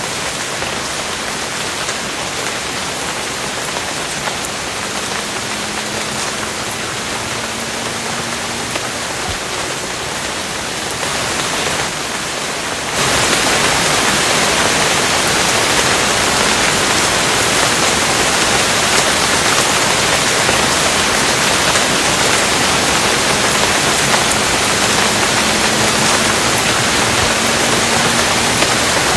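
Steady rain falling, an even hiss, which turns suddenly louder and brighter about thirteen seconds in, as if heavier rain.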